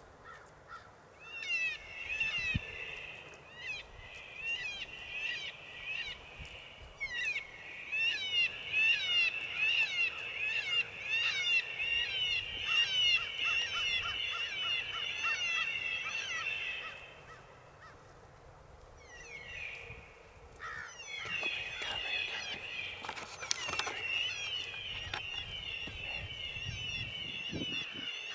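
Lucky Duck electronic predator caller playing a high-pitched animal call: rapid, repeated squealing cries, broken by a pause of a few seconds about two-thirds of the way through, with one brief thump shortly after it resumes.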